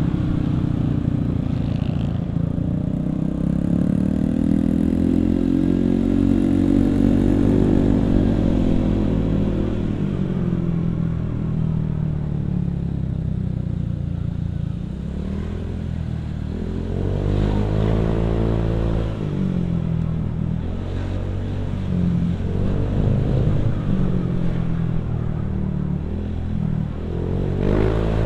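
Motorcycle engine running through an aftermarket CMS Gen 1 exhaust while being ridden. The revs climb slowly over the first several seconds and fall off, then rise and drop again in several shorter pulls from the middle onward, like acceleration through gears and easing off the throttle.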